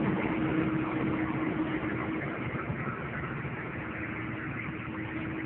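1991 one-ton truck's 6.2-litre V8 diesel idling steadily, with its air-conditioning compressor engaged and turning; a steady hum sits over the engine noise.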